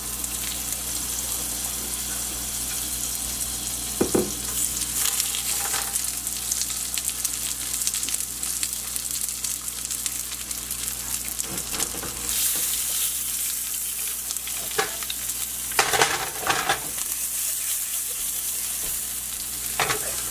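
Butter and seasoned saugeye fillets sizzling in a nonstick frying pan, a steady crackling hiss. A few short knocks and clicks of a spoon and the fillets against the pan cut through it, and the sizzle brightens about twelve seconds in.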